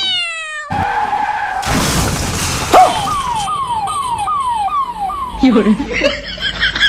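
Edited-in comedy sound effects for a scooter swerving: a tyre-skid screech with a sharp bang about three seconds in, then about six quick falling wails, one after another.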